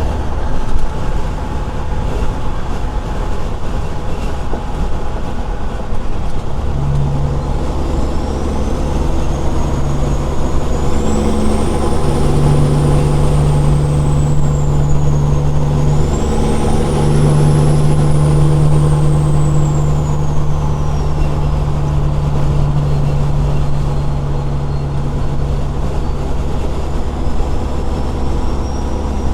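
Straight-piped Caterpillar 6NZ inline-six diesel of a semi truck running on the road. Its note steps up and down several times, and a faint high whine rises and falls over it.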